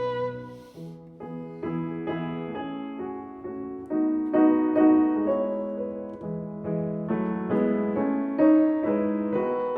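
Background music: a piano playing a gentle melody of single notes and chords, each note struck and left to ring away.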